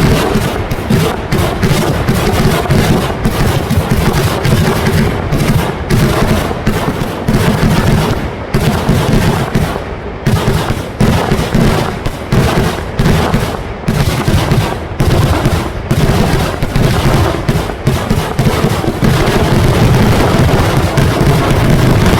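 A fireworks barrage: a dense, unbroken run of firecracker and shell bangs, several a second and overlapping, getting louder and more continuous near the end.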